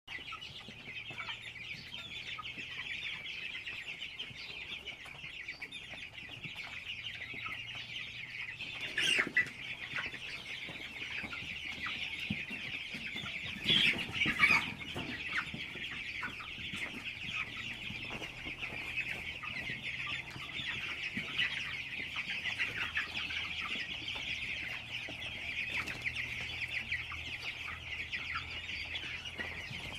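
Birds calling: a dense, steady high chatter throughout, with two louder calls about nine and fourteen seconds in.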